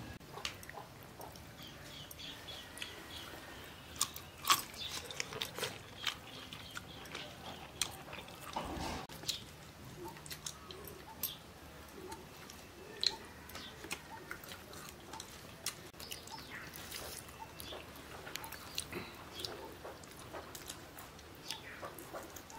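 People eating curry by hand and chewing with their mouths: irregular wet lip smacks and small clicks.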